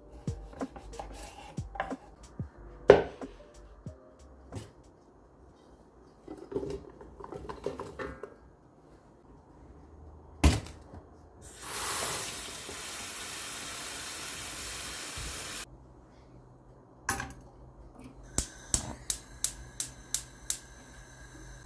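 Kitchen clatter: dishes and utensils knocking and clinking. About halfway through there is a steady hiss lasting about four seconds, and near the end a steady hum starts under a quick run of clinks.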